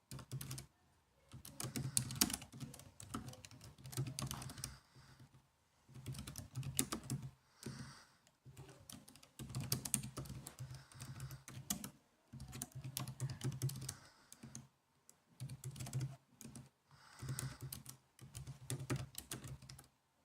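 Typing on a laptop keyboard: quick runs of key clicks lasting a second or two each, broken by short pauses.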